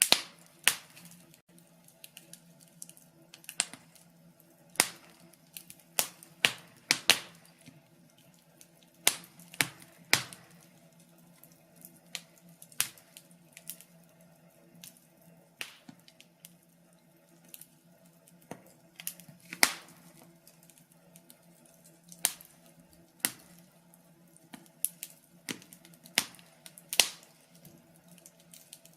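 Wood fire crackling, with sharp irregular pops and snaps at uneven loudness over a faint steady low hum.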